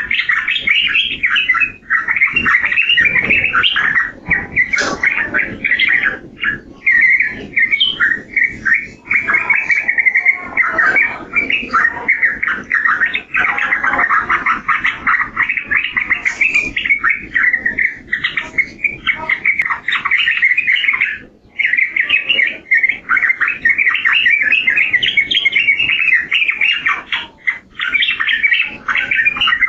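Yellow-vented bulbul (trucukan) singing in a dense, nearly unbroken stream of chattering, bubbling notes.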